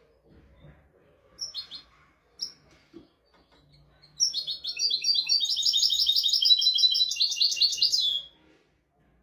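European goldfinch singing: two short chirps, then a fast, rattling phrase of high notes lasting about four seconds that stops near the end.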